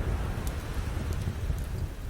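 Steady rushing wash of ocean waves with a few sharp pops and crackles from a wood campfire.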